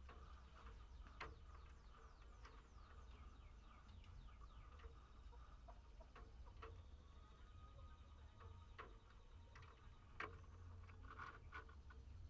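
Faint small birds chirping in an aviary: a run of quick falling high chirps in the first few seconds, then scattered sharp short calls and clicks.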